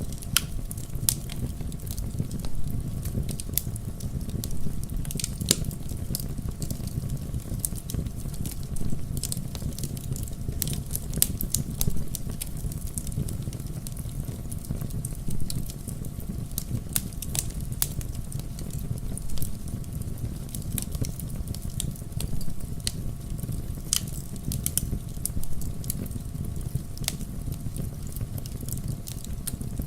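Wood fire burning in a fireplace: a steady low rumble of the flames with frequent sharp pops and crackles from the logs, irregularly spaced.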